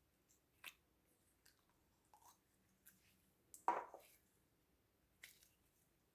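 Quiet, sticky clicks and crackles of slime being handled, a few scattered small pops with one louder squish a little past halfway.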